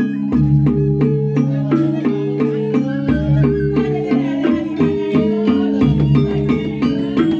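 Balinese gamelan music: fast interlocking strikes on bronze metallophones, with a deep low tone that sounds afresh about every three seconds.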